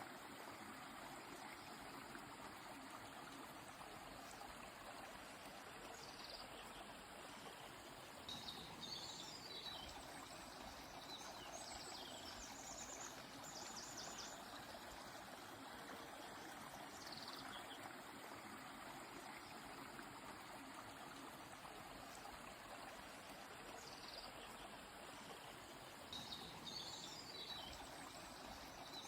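Steady rush of a flowing river, faint, with birds singing over it: short phrases of quick chirps and downward-sliding whistles that come every few seconds.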